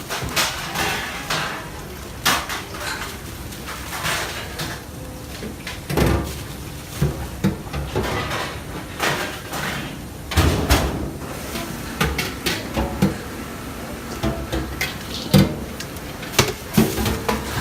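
Irregular knocks, clicks and rustling of hands-on kitchen work: containers and utensils handled while chopped green onions are portioned out and weighed on a kitchen scale.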